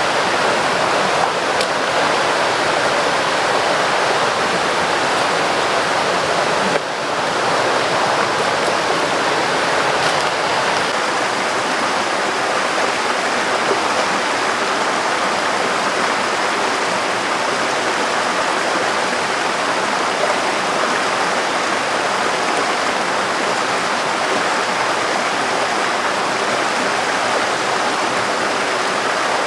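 Rushing river water, a loud steady churning hiss with no let-up, with a brief break about seven seconds in where the sound jumps.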